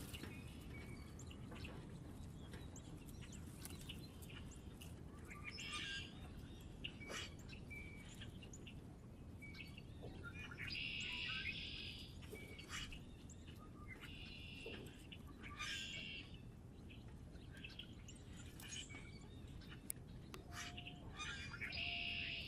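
Small songbirds chirping and calling, with many short chirps and three denser calls about a second long, over a steady low background rumble.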